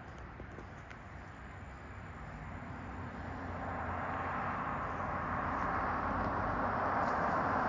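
Motor vehicle noise, a steady rushing hiss over a low rumble, growing steadily louder.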